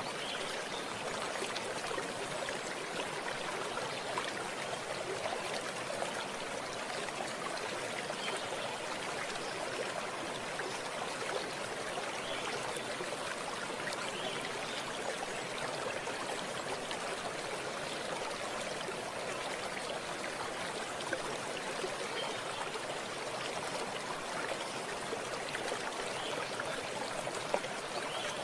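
Water running in a stream, a steady rushing and trickling with no breaks.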